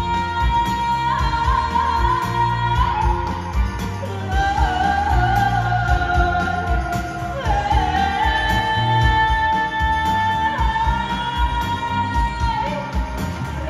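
A pop-style song continuing with a wordless sung melody: long held notes that slide between pitches, over a steady beat.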